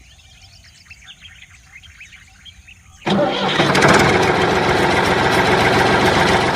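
Birds chirping faintly, then about three seconds in a small engine starts abruptly and runs loud and steady.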